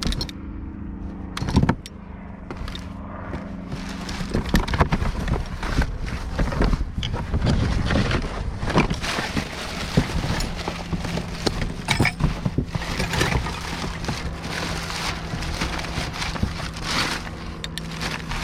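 Hands rummaging through a pile of scrap, with irregular clinks, knocks and rattles of items being moved, over the steady hum of an idling vehicle engine. The engine hum is stronger in the second half.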